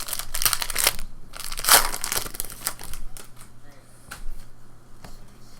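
Trading-card pack wrappers crinkling and tearing as packs are ripped open, densest in the first three seconds, then softer rustles and small clicks.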